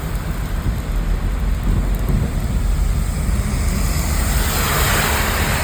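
Car driving through floodwater: a steady low rumble, with a hissing rush of water that swells about three and a half seconds in and eases near the end.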